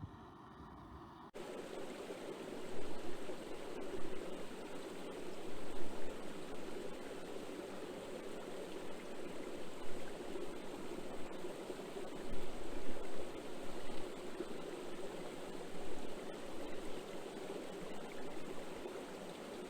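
Stream running, a steady rushing and splashing of water that starts abruptly a little over a second in. Before it, wind buffets the microphone briefly.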